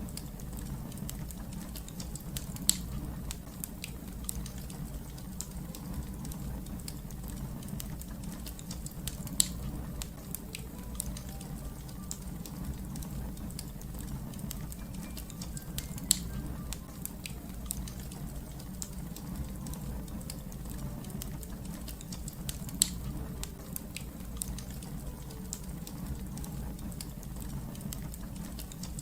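Wood fire crackling, with a steady low rumble under scattered sharp pops, four of them standing out clearly.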